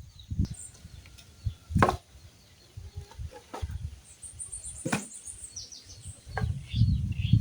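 Wood knocking against wood, with two sharp loud strikes about three seconds apart among lighter thuds, as firewood is handled for a bonfire. Small birds chirp throughout, and low rumbling builds near the end.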